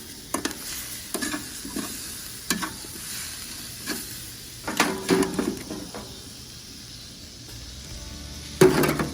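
Onions sizzling in a pan on a charcoal barbecue pit, a steady hiss broken by a few sharp clicks and knocks, the loudest near the end.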